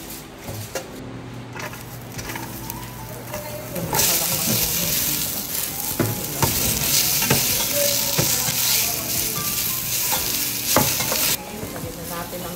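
Chopped onion, tomato and garlic hitting hot oil in a stainless steel pot about four seconds in and frying with a loud, steady sizzle, while a spoon knocks and scrapes against the pot. The sizzle drops sharply shortly before the end.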